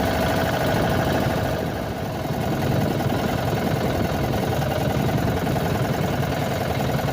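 Small boat's engine running steadily at a constant speed.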